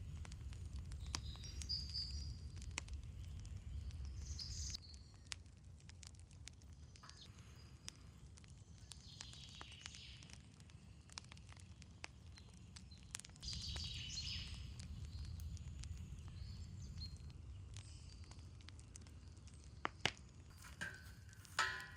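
Campfire crackling softly with scattered small pops, birds chirping now and then, and a low rumble that comes and goes. A few sharper knocks near the end.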